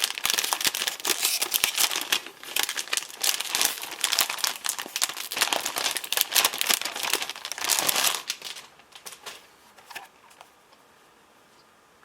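Crinkly material being crumpled and handled, a dense crackling rustle that fades out about eight or nine seconds in.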